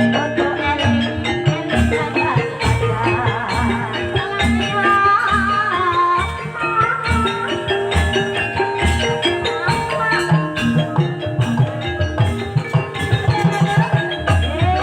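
Gamelan ensemble playing ebeg accompaniment: metallophones ringing out a repeating melody over regular kendang drum beats, with a wavering high melodic line in the middle.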